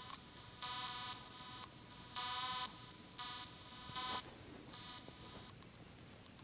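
Small speaker from a toy phone, wired to a battery through a color-changing LED, buzzing in short electronic tones as the LED's chip switches colors. Four buzzes of about half a second to a second each, after the tail of one at the start, with short pauses between them.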